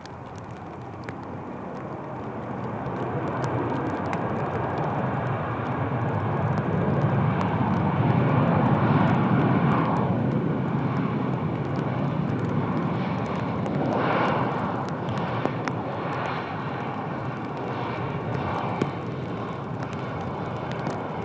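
An airliner passing on the runway, its engine noise swelling to a peak about eight seconds in and then slowly fading, with scattered ticks of rain on the camera's cover.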